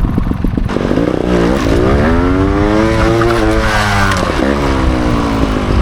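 Trials motorcycle engine at full throttle in fourth gear, its revs climbing from about a second in, holding high, then falling away near the end.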